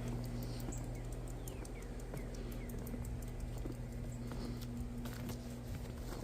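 Steady low hum of an outdoor air-conditioning unit running hard, with irregular light clicks and patter over it and a few short falling chirps.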